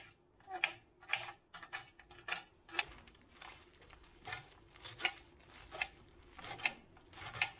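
Light clicks and taps of small household items being handled and put away, about two irregular sharp ticks a second.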